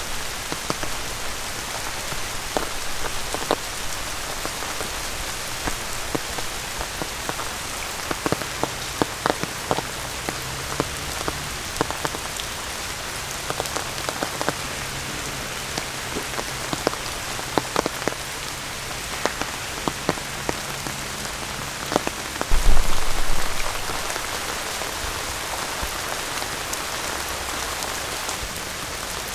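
Steady rain falling, with many separate drops ticking sharply through the patter. About two-thirds of the way in a brief low rumble lasting about a second stands out as the loudest sound.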